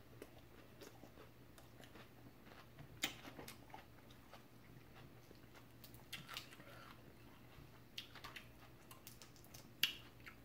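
Close-miked chewing and mouth sounds of someone eating shrimp salad: soft, scattered wet smacks and clicks, with a couple of louder smacks about three seconds in and near the end, over a faint low hum.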